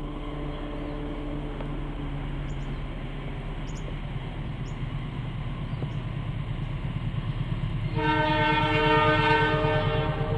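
KAI diesel-electric locomotive approaching with a passenger train, its low engine rumble growing steadily louder. About eight seconds in it sounds its horn, a chord of several tones held for about two seconds.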